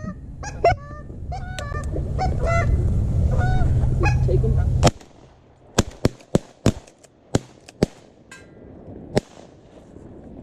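Repeated honking calls over a low rumble, then a volley of shotgun blasts at incoming ducks: one loud shot about five seconds in, followed by about eight more sharp shots over the next four seconds.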